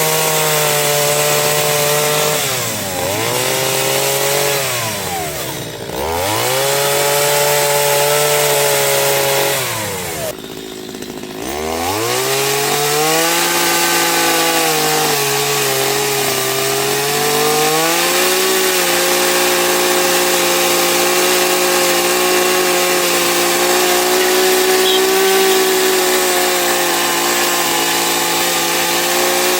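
Chainsaw cutting wood. Its pitch sags and recovers several times as it bogs under load, it nearly stops for a moment around eleven seconds, and from about eighteen seconds it runs at a steady, slightly higher pitch.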